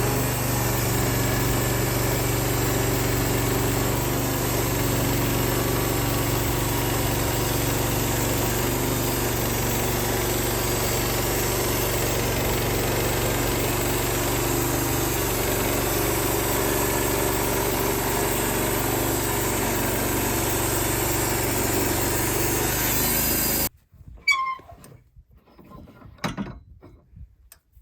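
Wood-Mizer LX55 portable band sawmill's 14 hp engine running steadily. Near the end the noise cuts off abruptly, followed by a few scattered knocks and clunks.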